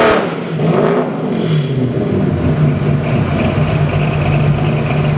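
Chevy 327 small-block V8 with a hydraulic roller "thumper" cam coming off a rev: the revs fall away right at the start and the engine settles into a steady idle within about two seconds.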